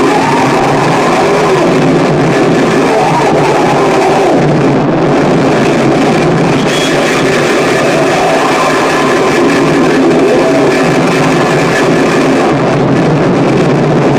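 Harsh noise music: a loud, unbroken wall of distorted noise with wavering, droning pitches in the low-middle range and no beat.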